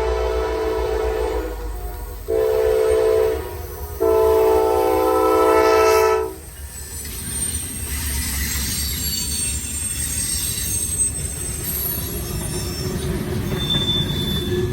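Freight locomotive horn sounding a long blast, a short one, then a long one, the close of the grade-crossing signal, with several notes sounding together. After the last blast the train rumbles past with faint squealing from the wheels.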